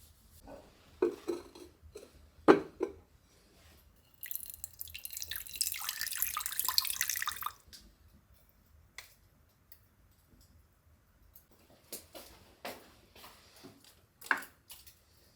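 Water running and splashing into a container for about three and a half seconds, between scattered knocks and clicks of things being handled.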